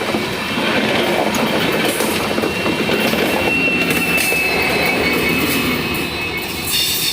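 Train moving along the track, its wheels rumbling steadily on the rails, with a thin high squeal of wheel on rail for a few seconds in the middle.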